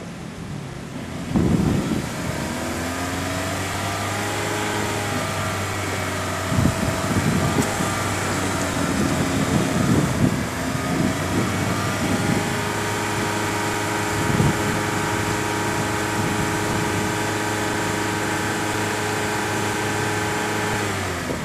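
Honda Fit four-cylinder engine running through a custom rear muffler with 2-inch piping and a 3-inch tip. There is a sharp rise about a second and a half in, then it idles and is revved in several short blips. From about halfway it is held at a steady raised speed, dropping back just before the end.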